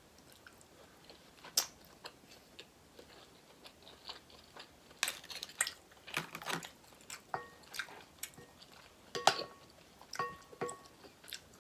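Close-up eating sounds from a seafood boil: scattered crunches, clicks and smacks of chewing and handling shellfish, with a few brief high squeaks in the second half.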